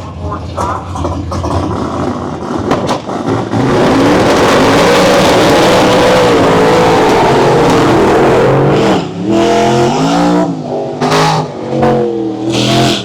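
Drag car's engine held at high revs for about five seconds over a loud hiss, then blipped in three short revs near the end.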